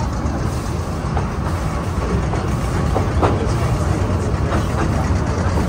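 Narrow-gauge passenger train running along the track, heard from an open-sided carriage: a steady rumble of wheels on the rails, with a few brief clicks around the middle.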